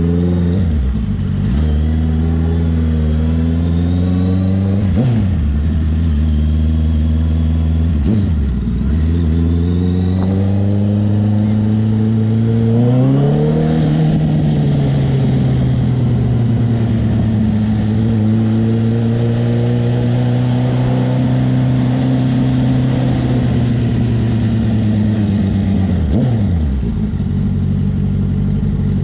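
Honda CB650R's inline-four engine with a CS Racing aftermarket exhaust, accelerating through gears: the pitch climbs and dips sharply at each of three shifts in the first nine seconds. It then climbs again and holds a steady cruise before the revs drop near the end.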